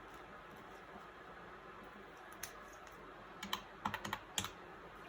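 A few light, sharp clicks and taps from hands handling paper cash on a table: one about two and a half seconds in, then a quick cluster near the four-second mark, over a faint steady room hush.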